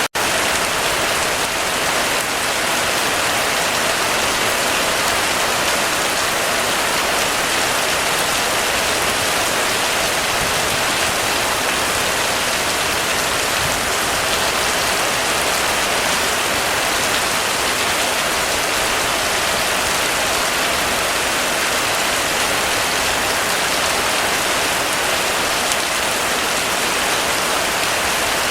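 Heavy rain falling steadily on a surface, an even unbroken hiss of drops with no thunder or change in strength.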